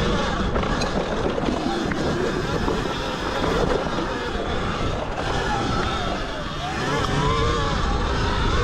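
Riding noise from a Zero XB electric dirt bike on a sandy trail: wind rushing over the microphone, with a faint motor whine that rises and falls as the throttle changes.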